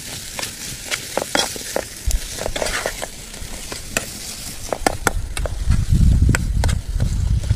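Chicken pieces sizzling in oil in a metal pot while a metal spatula stirs them, with many short clicks and scrapes of the spatula against the pot. A loud low rumble comes in over the last two seconds.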